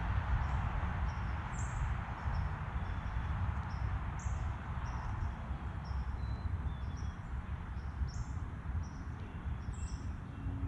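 Small birds chirping at a backyard feeder: short, high chirps repeating every half second or so, over a steady low background rumble.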